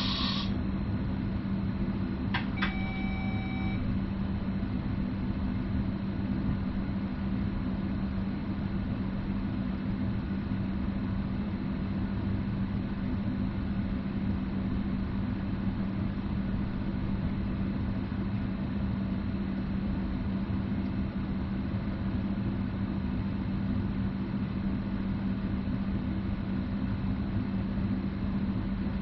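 Running noise inside the driver's cab of a VR Sm5 Stadler FLIRT electric commuter train: a steady rumble of the train on the track with a constant low hum. A click and a short electronic beep, about a second long, come about two and a half seconds in.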